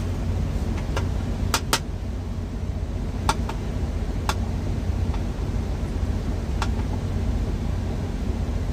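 Steady low rumble of an idling truck engine, with a handful of sharp clicks and taps from handling things.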